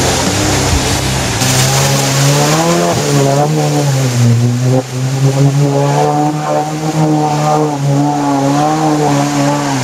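Off-road 4x4's engine revving as it drives through a mud hole, its pitch rising and falling with the throttle.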